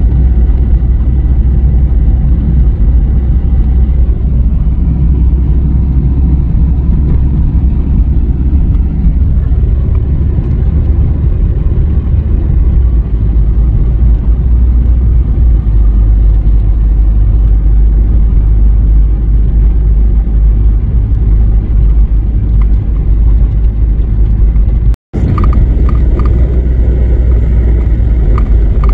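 Car driving steadily at low speed, a continuous loud low rumble of engine and road noise, broken by a momentary gap about 25 seconds in.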